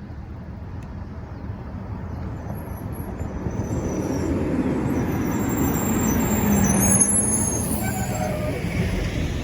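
Garbage truck driving in and passing close, its engine growing louder to a peak about seven seconds in, with some high squealing as it nears.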